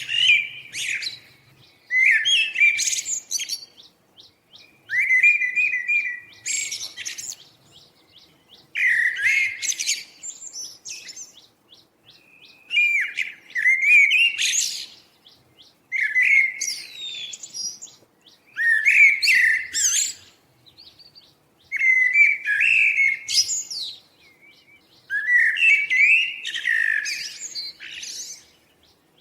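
A songbird singing the same kind of warbled song phrase over and over: a jumbled run of quick chirps and slurred notes lasting a second or two, repeated about every three seconds.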